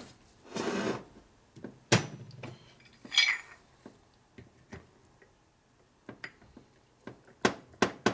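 Metal engine parts being handled on a workbench: scattered sharp clinks and knocks, a brief scrape about half a second in, a short jingle about three seconds in, and a quick run of sharp clicks near the end.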